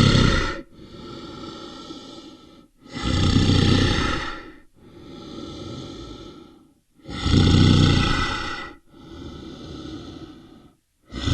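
An animal's loud rasping breaths, repeating about every four seconds: each time a loud breath of about a second is followed by a quieter, longer one.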